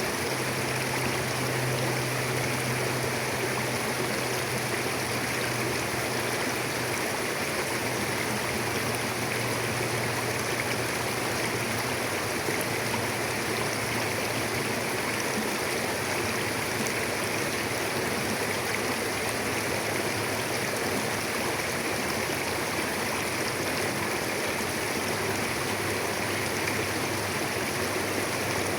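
Mountain river flowing: a steady rush of water over rocks.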